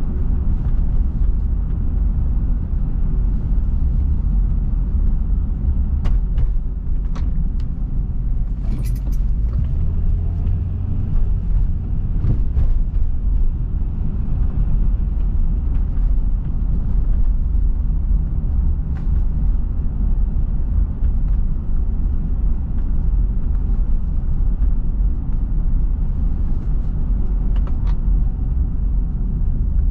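A car driving, with a steady low road rumble of tyres and engine. A few faint clicks and ticks come now and then.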